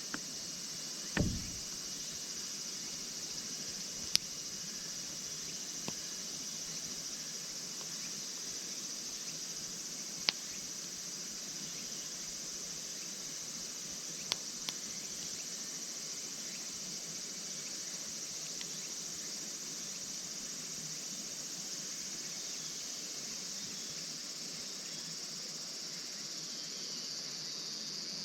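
Insects chirring steadily in a high continuous drone, with a few sharp isolated pops from a crackling campfire.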